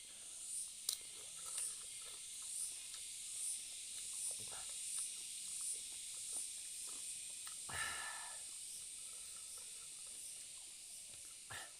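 A high insect chirp pulsing about once a second over a steady hiss, with a few faint clicks and one louder crunch-like noise just past the middle.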